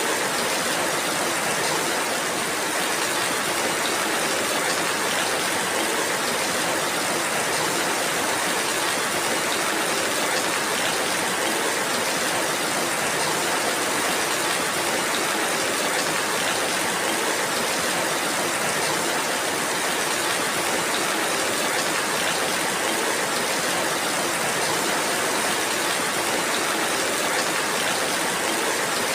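Steady rainfall: a constant, even hiss of rain with no separate drops, thunder or other events standing out.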